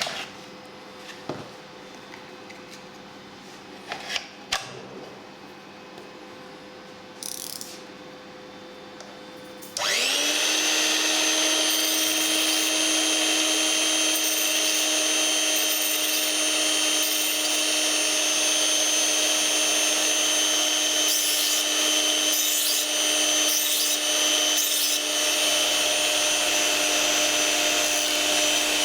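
Electric knife and scissor sharpener: a few handling clicks, then about ten seconds in the motor switches on, spins up quickly and runs at a steady high whine. A few short changes in the sound come about two-thirds of the way through.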